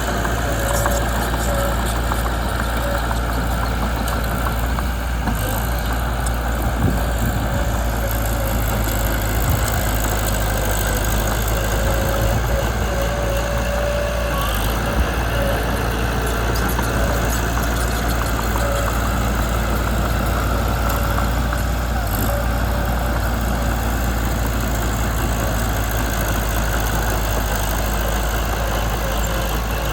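Mitsubishi BD2 bulldozer's diesel engine running steadily.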